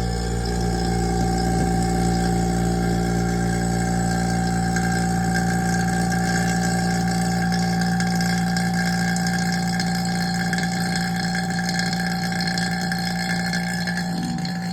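Electric vacuum pump running with a steady, even hum.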